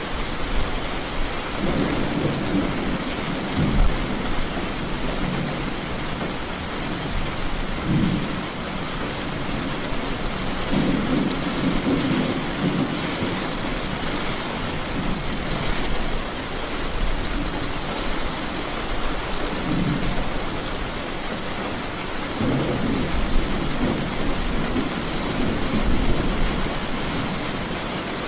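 Steady rain falling in an even hiss, with rolls of thunder rumbling low several times over it.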